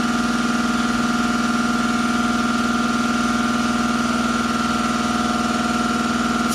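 Air compressor running steadily, a constant hum with a whine above it, supplying air to an air-over-hydraulic motorcycle lift.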